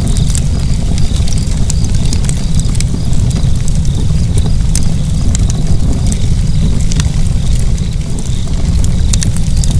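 Wood fire burning: a loud, steady low rumble with frequent, irregular sharp crackles and pops.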